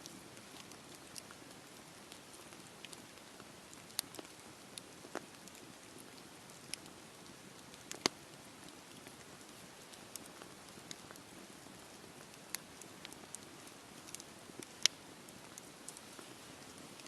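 Wood fire in a fireplace crackling: a soft steady hiss with irregular sharp pops, the loudest about 8 and 15 seconds in.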